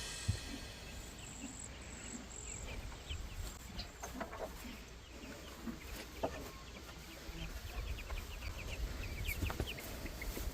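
Chickens clucking, with short chirps scattered through and growing busier near the end.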